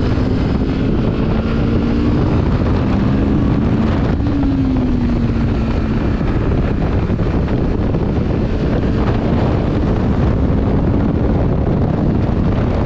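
Benelli TRK 702 motorcycle's parallel-twin engine running on the move, its pitch rising and falling as the throttle changes, under heavy wind noise on the microphone.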